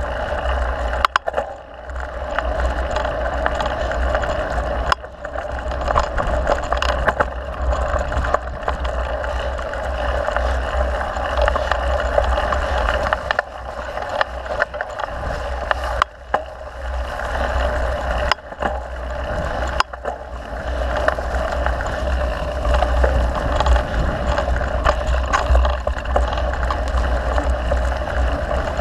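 Mountain bike riding over a dirt trail: steady rushing noise of tyres and wind, with sharp knocks and rattles of the bike over the ground every few seconds.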